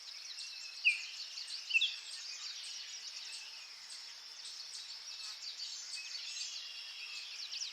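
Background birdsong: many small birds chirping and twittering high up, with two louder chirps about one and two seconds in.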